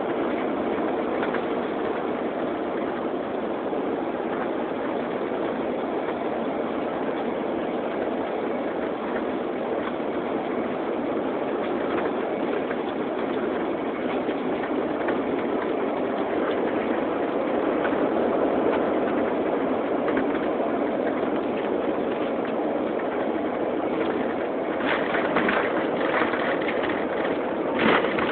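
Steady rushing noise of a jet airliner heard from inside the passenger cabin, engines and airflow, with a few short rattles near the end.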